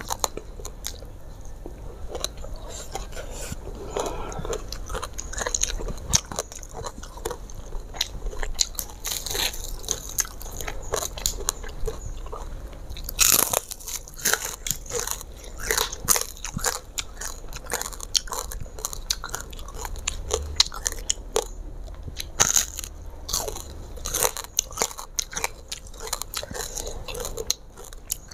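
A person biting and chewing deep-fried mujair (Mozambique tilapia), with crisp crunches of the fried fish's bones and skin scattered throughout. A cluster of louder crunches comes about halfway through.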